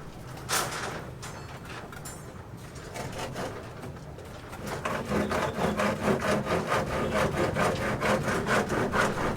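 Hand sawing in quick, regular back-and-forth strokes, about four a second, starting about five seconds in. A single knock comes about half a second in.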